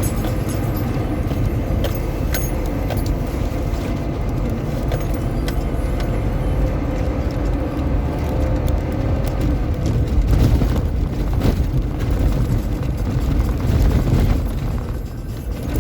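Car running, a steady engine and road rumble with small rattles and clicks throughout, and a few heavier knocks and louder surges about ten and fourteen seconds in.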